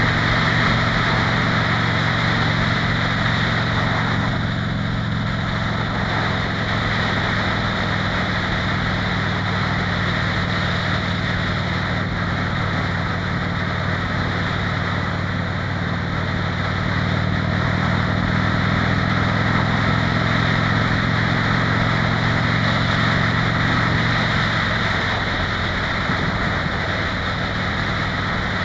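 Harley-Davidson Fat Bob's V-twin engine running steadily at highway cruising speed, under a steady rush of wind and road noise. The engine note shifts briefly a few seconds before the end.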